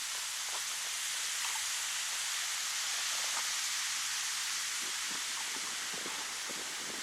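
Wind blowing steadily through birch trees: an even rushing hiss of leaves and branches, with a few faint ticks.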